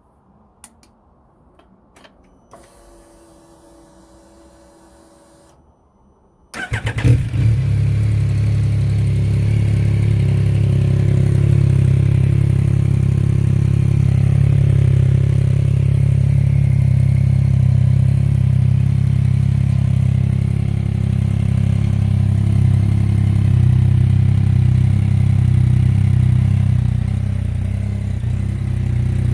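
Yamaha XSR900 inline-three motorcycle engine with an aftermarket GPR exhaust: a few small clicks and a short steady hum of the fuel pump priming, then the engine starts about six and a half seconds in and settles into a steady idle.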